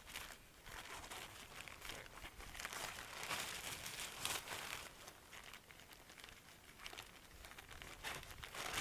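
Tent fabric rustling and crinkling as it is handled, in irregular bursts that are loudest in the middle.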